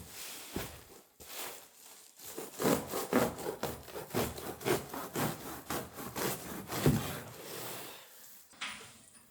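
Rhythmic back-and-forth strokes of a hand tool working wood, about three a second, starting about a second in and stopping about eight seconds in.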